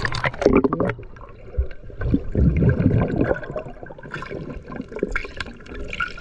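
Water splashing and gurgling close to the microphone in irregular surges as someone swims in a river. The loudest surges come in the first second and again about two seconds in.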